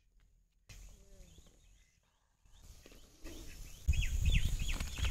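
Small birds chirping in short repeated calls, strongest in the second half, over a loud low rumble that comes in about four seconds in.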